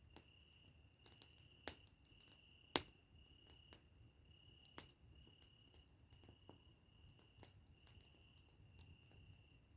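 Wood fire crackling: sparse, irregular sharp pops and snaps, the loudest a little under two seconds and about three seconds in. A faint steady high-pitched tone, broken by short gaps, runs underneath.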